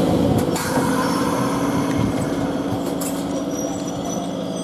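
Electric multiple unit local train rolling slowly past, a steady electrical hum with a few sharp knocks from the running gear, growing slightly quieter as the last coach goes by.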